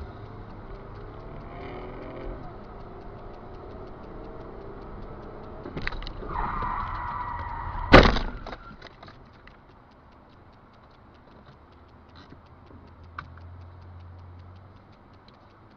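Car sounds: a high squeal for about two seconds ends in a sharp, loud bang about eight seconds in, as in a car collision. Then it goes quieter, with faint regular ticking.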